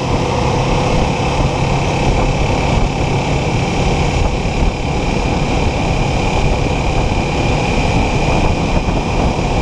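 Kawasaki Ninja 400 parallel-twin engine running steadily in fifth gear at cruising speed, under loud, even wind rush on the microphone.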